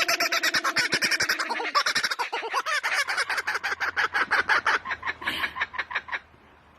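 A bird giving a rapid, even run of clucking calls, about nine a second, that stops abruptly about six seconds in.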